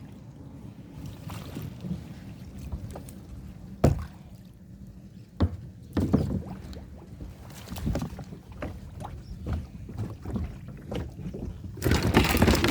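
Kayak being paddled: paddle strokes in the water and a few sharp knocks against the hull, over a steady low rumble of wind on the microphone. A louder burst of splashing and rustling comes near the end.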